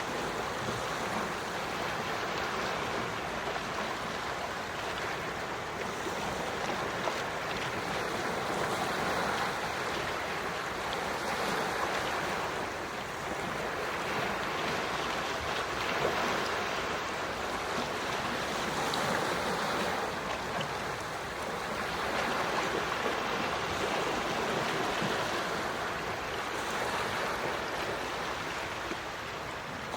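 Gentle ocean waves washing in and out, a steady rush that swells and eases every few seconds.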